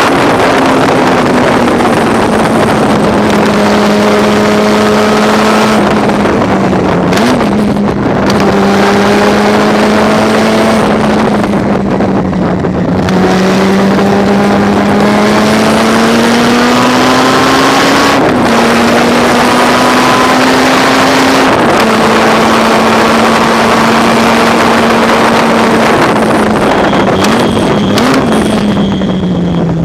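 Racing car engine at full throttle around a circuit: its pitch climbs slowly through each gear and drops sharply at each shift or lift, several times over.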